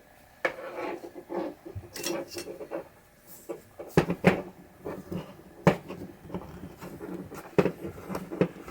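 Small metal pinball coil-assembly parts and hand tools being handled and set down on a bench: scattered clicks, clinks and knocks, with light rattling in between.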